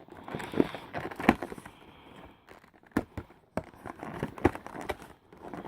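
Cardboard advent calendar door and packaging being handled: light crinkling with a scatter of sharp clicks and taps as the door is opened and the item is taken out.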